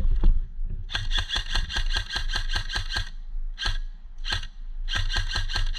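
Airsoft rifle firing: a rapid run of shots lasting about two seconds, two single shots, then a shorter rapid burst near the end.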